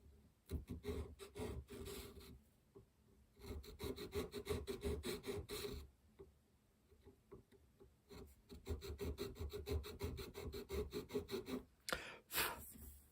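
Hand tool rasping against metal in three bouts of quick back-and-forth strokes with short pauses between them, as a screwdriver blade is shaped into a chequering tool.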